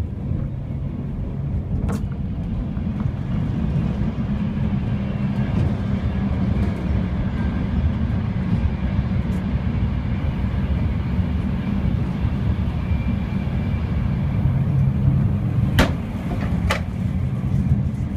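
Inside a passenger train carriage on the move: a steady low rumble and hum of the train running. A sharp click sounds about two seconds in, and two more come close together near the end.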